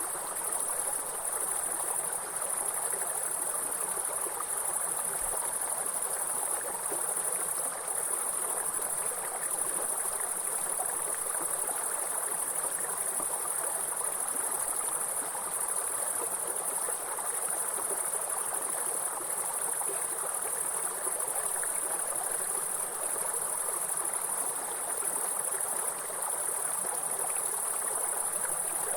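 A steady high-pitched insect chorus over the even rush of a flowing stream.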